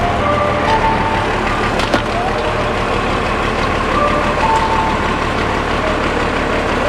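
Truck with a 12-valve Cummins turbo-diesel running, a steady rough noise, with music playing faintly over it.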